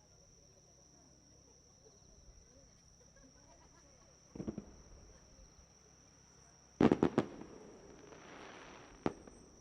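Fireworks going off: a short group of cracks about halfway through, then three or four loud sharp bangs in quick succession trailing into a crackling hiss, and one more crack near the end.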